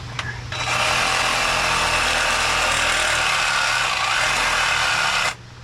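A power tool runs for about five seconds, starting and stopping abruptly, over a steady low hum.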